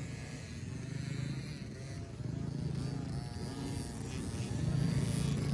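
Dirt bike engines running at the motocross track, a steady low drone that rises a little about two seconds in and again near the end.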